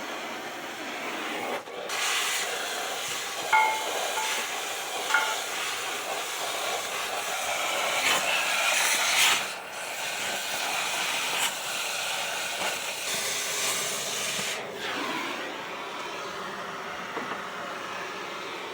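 Oxy-acetylene cutting torch hissing steadily as it cuts steel, the hiss dropping out briefly a few times and resuming.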